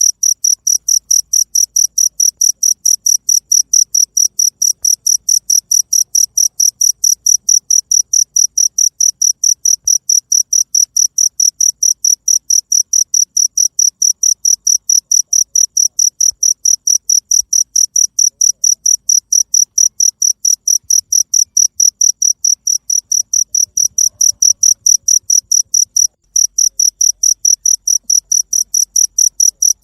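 Cricket chirping steadily in a fast, even rhythm of about five high-pitched chirps a second, with one brief break near the end.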